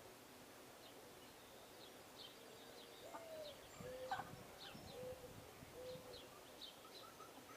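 A dove cooing softly: one rising and falling note, then three steady lower notes, the pattern of a mourning dove's song. Faint, thin chirps of small birds are scattered throughout.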